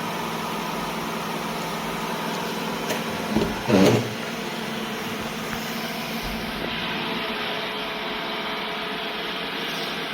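Roomba j7+ robot vacuum running steadily, its motor and brushes making a continuous mechanical hum. About three and a half seconds in there is a short louder burst, and near seven seconds the higher hiss drops away.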